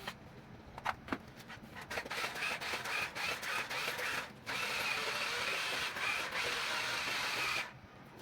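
Small electric gear motors of a Huina 1550 RC toy excavator whirring, after a run of sharp clicks. The whir breaks off briefly in the middle and stops shortly before the end.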